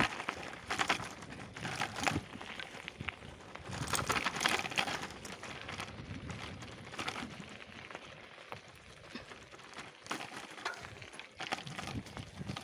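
Footsteps crunching and rustling through forest undergrowth, in uneven bursts about every second or two.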